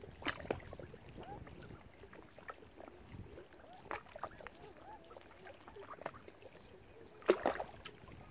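Mallard ducks calling softly at the water, short low calls scattered throughout with little clicks and dabbling sounds, and one louder call about seven seconds in.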